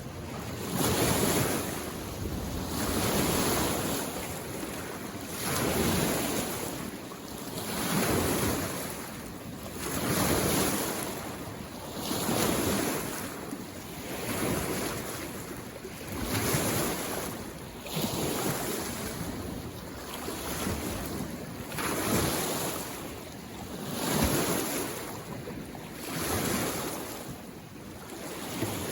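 Small waves on a mountain lake washing in against the shore, one surge about every two seconds.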